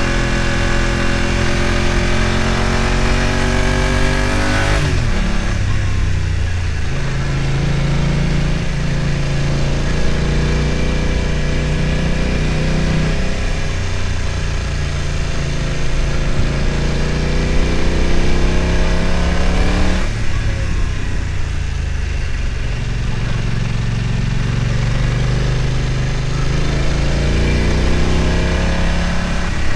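BMW F900 XR's parallel-twin engine pulling under throttle, its pitch climbing steadily. The revs drop sharply about five seconds in and again about twenty seconds in, then climb again.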